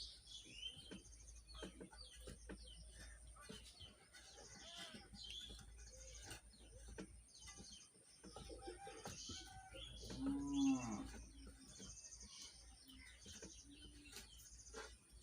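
Small birds chirping throughout, with a cow lowing once about ten seconds in, the loudest sound; scattered light clicks between.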